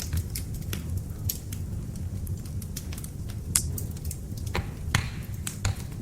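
Ceramic stove tiles clicking and knocking as they are handled and set out, scattered sharp clicks over a steady low hum.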